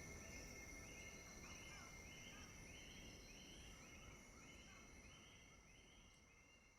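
Faint rainforest ambience: steady high insect-like drones with a repeated chirping call about twice a second, fading out.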